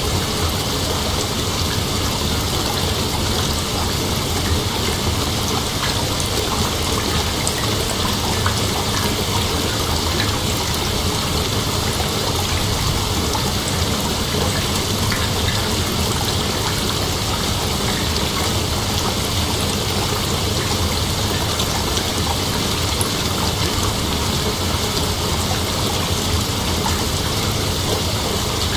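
Steady night-time ambience: a continuous hiss like running water, with a high insect chorus over it. Even and unbroken, with no distinct calls or events.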